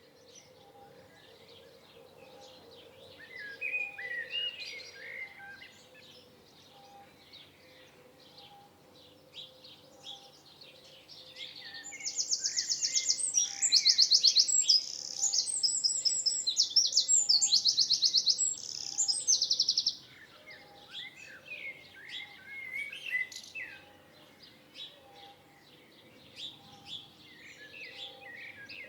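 Songbirds singing and chirping, with one bird close by delivering loud, rapid trilled phrases in the middle for about eight seconds, and quieter calls before and after.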